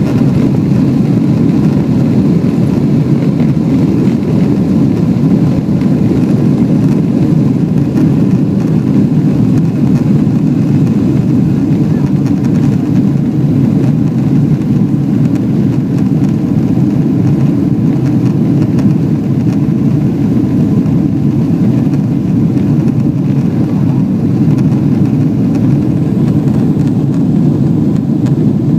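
Boeing 777 jet engines and rushing air during takeoff: a loud, steady low rumble that holds unchanged throughout.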